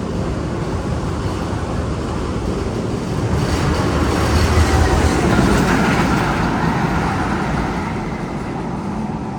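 A train-like rumble from one of the Magnum XL 200 tunnel's sound effects, playing over speakers. It swells to a peak about five seconds in, then fades back down.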